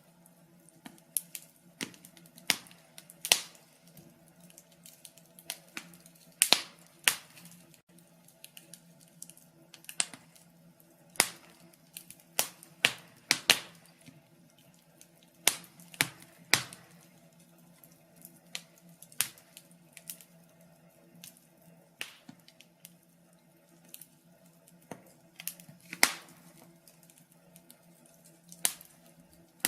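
Wood fire crackling in a fireplace: irregular sharp pops and snaps, the louder ones every second or two, over a faint steady low hum.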